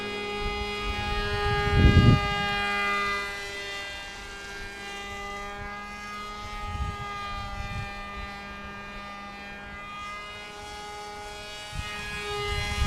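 Motor and propeller of a radio-controlled foam plane in flight, giving a steady whine with only small shifts in pitch. It grows louder about two seconds in and again near the end, with low rumbling gusts on the microphone.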